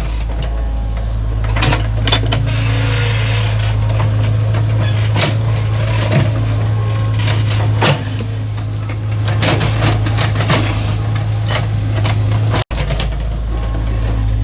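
Excavator's diesel engine running steadily, with scattered knocks, clanks and scrapes of the bucket digging into earth and stone. The sound cuts out for an instant near the end.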